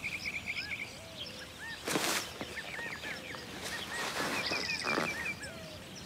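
Small birds chirping over and over, short high calls in quick runs, with brief rustles about two seconds in and again around four to five seconds.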